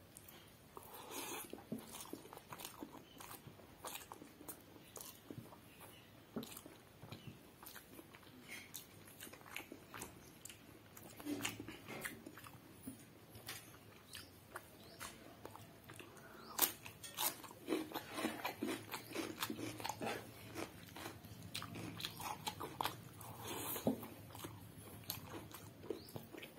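Close-up eating noises: a person chewing mouthfuls of pulao rice and biting into raw cucumber slices, with crisp crunching and irregular clicks, loudest in the second half.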